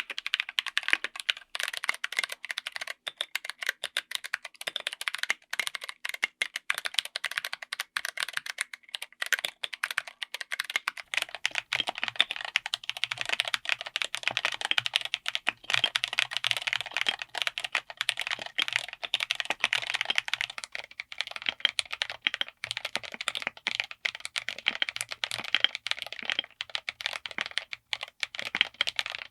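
Steady, fast typing on a mechanical keyboard fitted with tactile switches: dense, overlapping keystroke clacks. About eleven seconds in, the character of the typing changes slightly and a faint low hum joins underneath.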